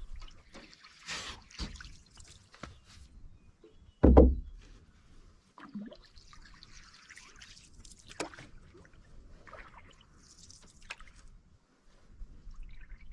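Canoe paddling: water splashing and dripping off the paddle in scattered strokes, with one loud low thump about four seconds in.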